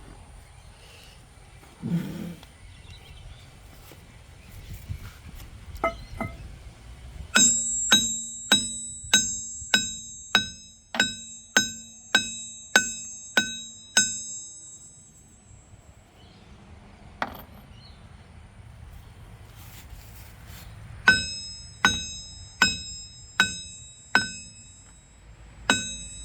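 Hammer blows on a steel excavator drive sprocket, each strike making the sprocket ring like a bell, as it is tapped loose from its hub. A run of about fifteen blows at about two a second, a single knock, then another run near the end; a dull thump about two seconds in.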